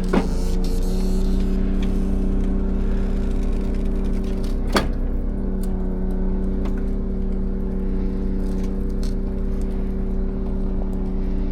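Timber truck's diesel engine running with a steady, even drone. Two sharp knocks come through, one right at the start and one about five seconds in.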